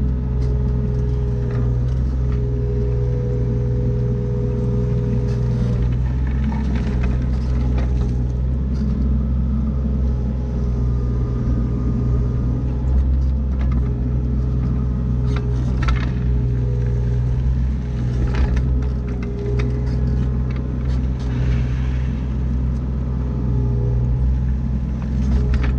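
John Deere 35D mini excavator running steadily, its diesel engine and hydraulics working, with a steady whine that comes and goes and short knocks now and then.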